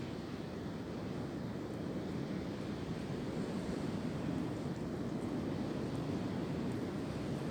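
Steady wind blowing, with wind rumbling on the microphone, swelling slightly toward the end.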